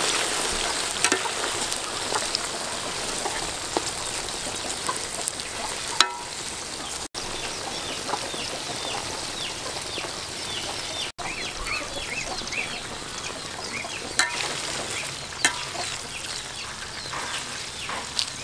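Grasshoppers deep-frying in hot oil in a large aluminium wok: a steady sizzle, with a few sharp clicks of the metal slotted ladle against the pan as they are stirred.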